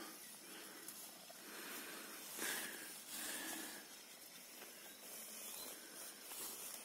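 Large petrol-doused bonfire burning with a faint, steady hiss, swelling briefly twice about two and a half to three seconds in.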